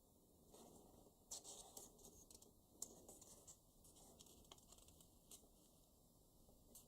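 Faint crackling and ticking of a paper banknote being handled and creased while it is folded, in small irregular clusters.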